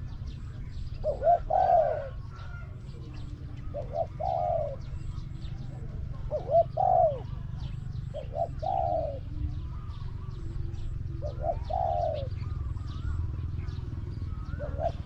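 Spotted doves cooing: a repeated two-part coo, a short note then a longer arched one, about every two to three seconds, with faint chirps of small birds in the background.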